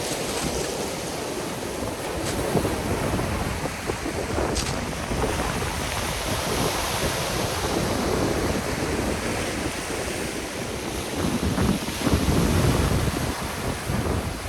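Sea surf washing and breaking on the shore in a continuous rising and falling rush, with wind buffeting the microphone.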